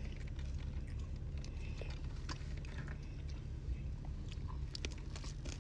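A person chewing and biting into food close to the microphone, with small scattered crunchy clicks over a steady low rumble.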